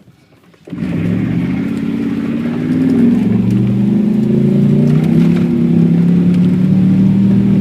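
Car engine running loudly, setting in suddenly under a second in, its pitch rising a little and then holding steady as it pulls.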